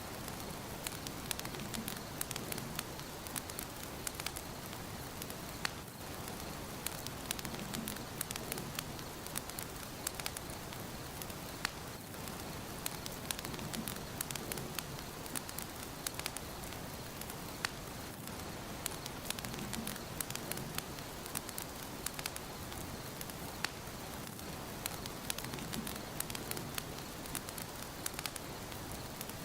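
Wood fire crackling in a fireplace: a steady hiss of burning with frequent sharp pops and snaps scattered throughout.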